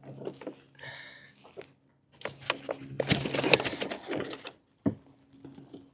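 Rapid clicking and knocking, with a dense clatter from about three to four and a half seconds in and one sharp knock just before the end.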